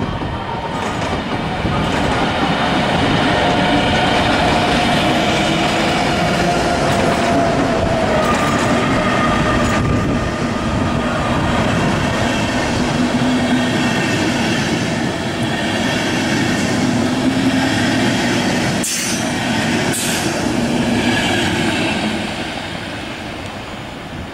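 Intercity train hauled by a DB Class 101 electric locomotive pulling out of the station, its coaches rolling past with wheels squealing and clicking over the rail joints. There are two short sharp high sounds about two-thirds of the way through, and the sound fades as the train pulls away near the end.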